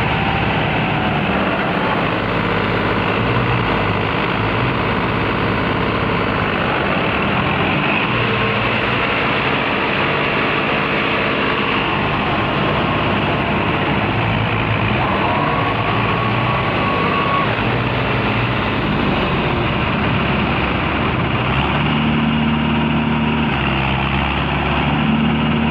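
A vehicle engine running steadily throughout, with a few held pitches that shift now and then.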